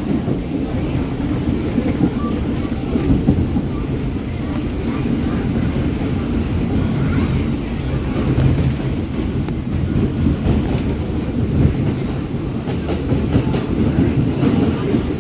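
Subway train running on the track: a steady loud rumble with the clickety-clack of wheels over rail joints.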